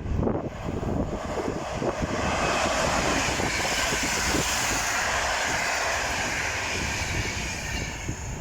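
Locomotive-hauled intercity passenger train passing: a steady rumble of wheels on the rails with a rushing hiss that grows stronger about two seconds in.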